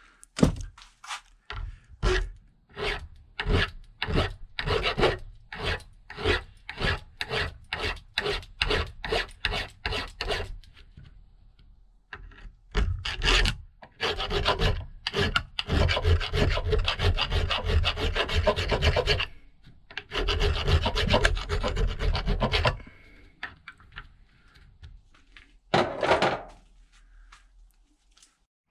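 Hand file rasping down the stub of a snapped steel bleed nipple on a motorcycle rear brake caliper. Even push strokes come about two a second for around ten seconds. After a short pause the strokes come quicker and closer together, then fall off to a few light strokes and a last one near the end.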